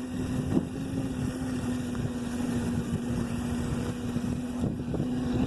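Motorcycle engine running at a steady pitch while being ridden, with wind rumbling on the microphone and a few short knocks.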